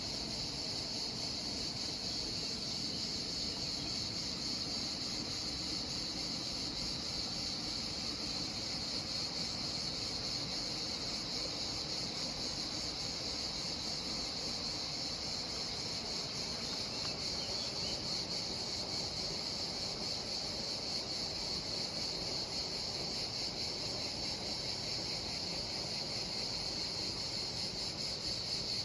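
A steady chorus of insects: a continuous high-pitched buzzing trill that never lets up.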